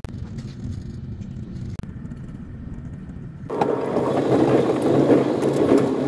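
Interior of a moving electric passenger train: a steady low rumble and hum. About three and a half seconds in, a much louder rushing noise of the train running at speed takes over, heard beside the carriage window.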